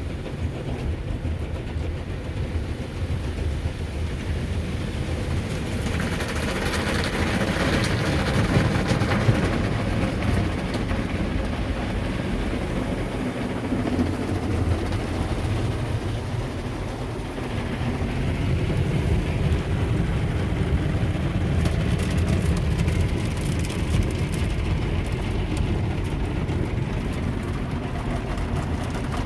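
Ryko SoftGloss Maxx soft-touch automatic car wash working over the car, heard from inside the cabin: a steady low rumble with rushing water and washing noise. The hiss grows louder about six seconds in, eases off, and builds again from about eighteen seconds.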